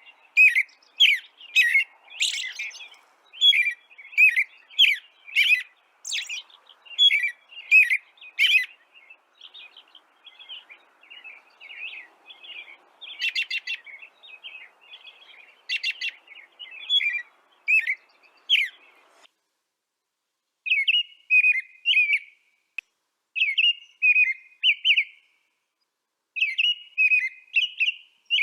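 A bird chirping over and over in short, sharp chirps, about one or two a second at first, then in looser twittering phrases. There is a brief pause about two-thirds of the way through.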